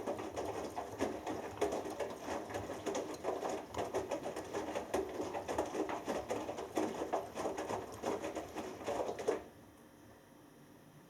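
Front-loading washing machine drum turning in the wash phase, with wet laundry tumbling and water sloshing in an uneven run of splashes and thuds. The tumbling stops abruptly about nine seconds in as the drum pauses, leaving only a faint hum.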